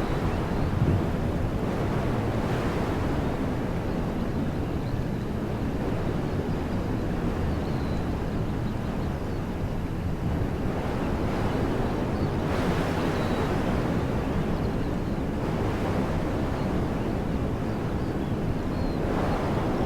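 Wind blowing through woodland trees as a steady rushing hiss, swelling in gusts about two-thirds of the way in and again near the end, with a low rumble of wind on the microphone.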